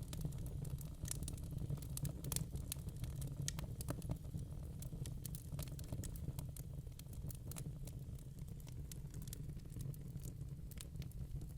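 Wood burning in a fireplace, crackling with frequent irregular sharp pops over the steady low rumble of the fire.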